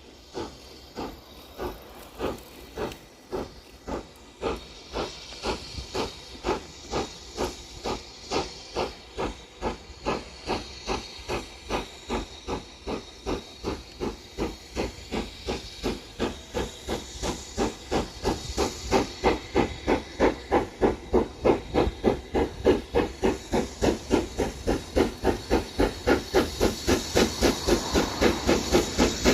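Steam locomotive working hard, its exhaust beats chuffing in a steady rhythm that quickens from about two to about four beats a second and grows louder as it approaches.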